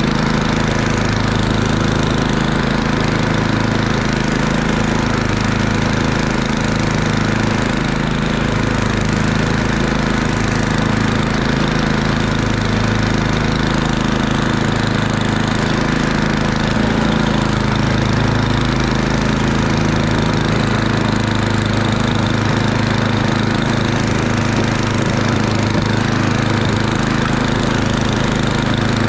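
Murray Ultra 8/27 snowblower's 8 hp engine running steadily, its note wavering slightly every couple of seconds.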